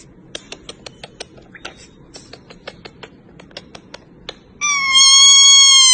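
Parrot beak clicks, several a second, as the mother and chick touch beaks, followed near the end by one loud, drawn-out, high call on a steady, slightly falling pitch.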